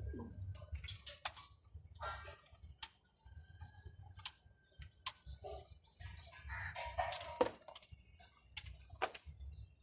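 Pigeons moving about: scattered sharp clicks and scuffs, with a few short bird calls about two seconds in and again around seven seconds.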